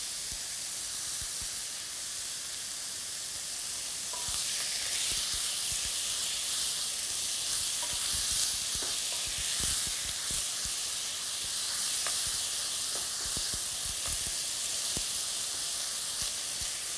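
Shredded chicken sizzling in hot olive oil in a wok, stirred with a wooden spoon. The sizzle grows louder about four seconds in, with scattered knocks and scrapes of the spoon against the pan.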